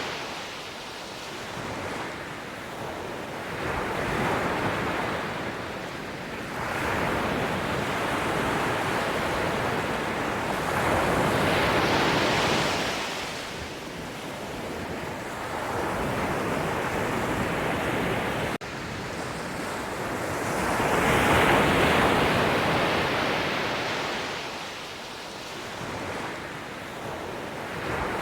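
Sea waves breaking and washing ashore, a steady surf noise that swells and ebbs in long surges every few seconds, with the biggest waves about twelve and twenty-two seconds in.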